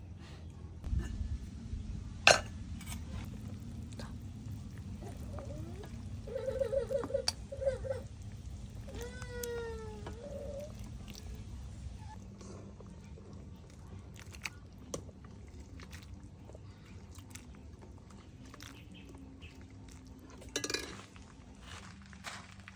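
A cat meowing a few times around the middle, ending in one longer, bending meow. A sharp clink comes shortly before, and there are a few scattered knocks.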